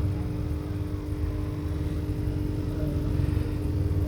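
Steady electrical hum of aquarium equipment, a constant buzz made of several even tones with a low rumble underneath.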